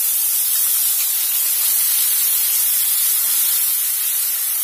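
Onion paste just added to hot oil, sizzling as a loud, steady hiss.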